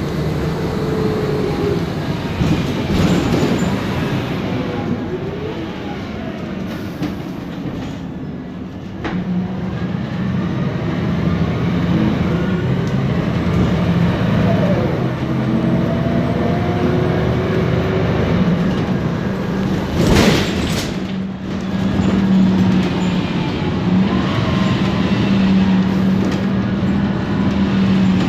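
Inside a 2009 MAN Lion's Classic city bus under way: its MAN E2876 CNG engine drones steadily, with rising and falling whines from the ZF Ecomat 6HP504C six-speed automatic gearbox. The sound dips briefly and builds again about eight seconds in, and there is a sharp knock about twenty seconds in.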